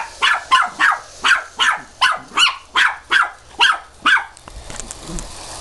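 Puppy barking in quick, even yaps, about three a second, at a circling toy train. The barking stops about four seconds in.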